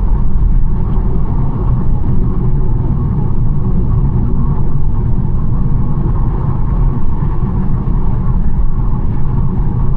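Steady low rumble of a BMW 1 Series driving along: tyre, road and engine noise at a constant pace.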